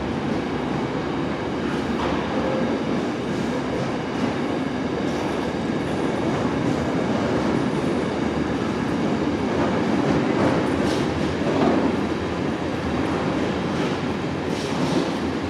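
Freight train pulling out, its wagons rolling past with clickety-clack over the rail joints, a little louder about ten seconds in.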